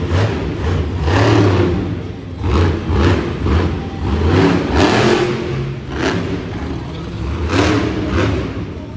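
Monster truck engine revving hard in repeated surges during a freestyle run, loud throughout.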